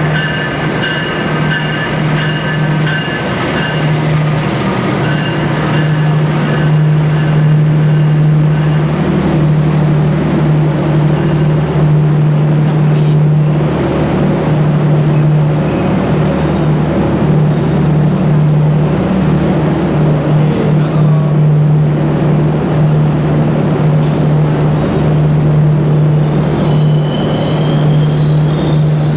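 Diesel locomotive hauling a passenger train slowly along the platform, a steady low engine hum under the rumble of the passing coaches. High-pitched wheel and brake squeal sounds in the first few seconds and again near the end as the train slows to a stop.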